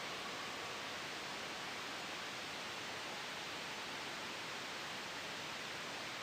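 Steady, soft white-noise hiss mixed with a gentle breeze, even and unchanging. A faint high tone fades out about a second in.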